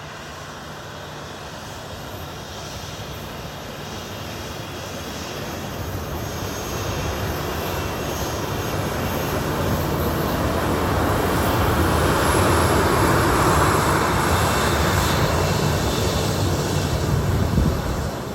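Airplane engines of a low-flying aircraft, a broad rushing noise that grows steadily louder for about twelve seconds, then eases slightly near the end.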